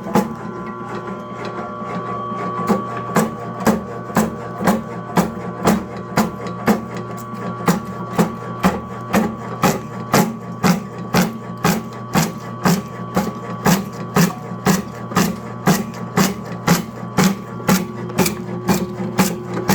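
Motor-driven cutting machine running with a steady hum, its blade striking in a regular rhythm of sharp knocks a little over two a second as it cuts through the material fed into it.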